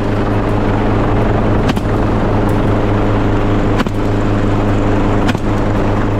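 Helicopter running steadily overhead with a constant drone, crossed by three sharp cracks of rifle fire about two seconds apart.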